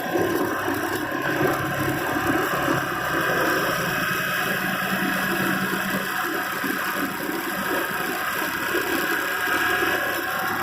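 Kubota diesel tractor engine running steadily.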